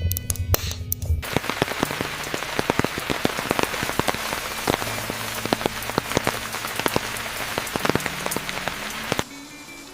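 Steady rain falling on a hard surface, a dense hiss with many separate drop hits. It comes in abruptly about a second in, replacing music, and cuts off suddenly near the end.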